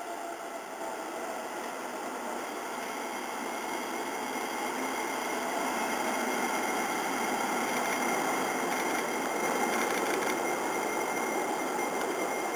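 Keisei 3050 series electric train pulling into the station, its running noise growing steadily louder as it approaches. A thin, steady high whine joins in about two-thirds of the way through.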